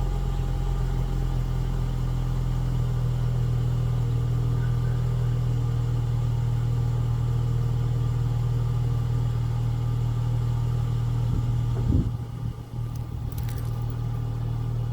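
Chrysler 300S engine idling steadily on its stock exhaust shortly after a cold start: a constant low drone. About twelve seconds in there is a brief thump, and the idle carries on a little quieter.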